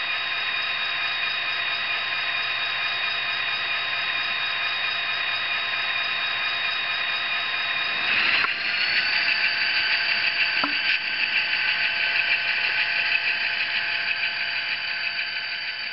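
Tsunami sound decoder in an N-scale EMD FP45 model playing its diesel prime-mover sound through a tiny speaker, tinny and without bass, running steadily. About eight seconds in it steps up to a higher, louder throttle notch, with a single click near eleven seconds.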